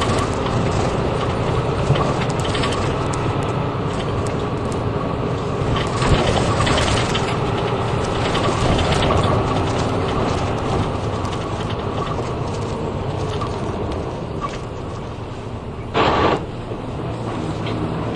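Route bus running, heard from inside the cabin: steady engine and road hum with interior fittings rattling and ticking. A short, loud burst of noise about two seconds before the end.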